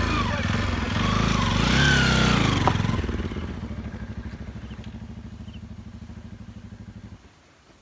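Motorcycle engine running close by: loud for the first three seconds, then quieter with an even pulse, and it stops suddenly a little before the end.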